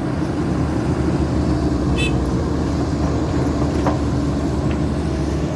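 Diesel engine of a Caterpillar 320D2 hydraulic excavator running steadily under load while it digs and loads soil, with a brief sharp metallic click about two seconds in.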